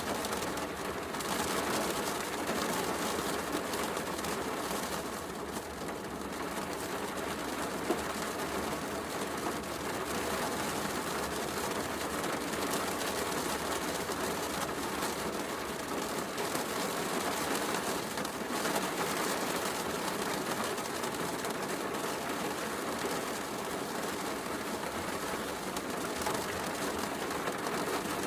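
Steady heavy rain falling, with occasional small crackles and one sharper pop from a wood fire burning in a fireplace.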